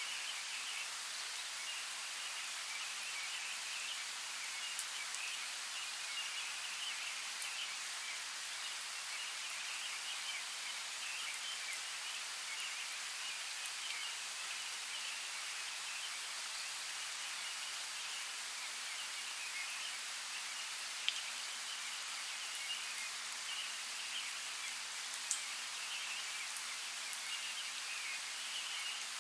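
Steady rain falling, an even hiss with a few sharp drop ticks, two of them standing out near the end.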